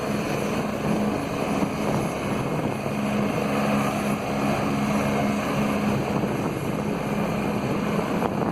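Helicopter lifting off close by, its rotor and engine noise steady, with a low hum throughout.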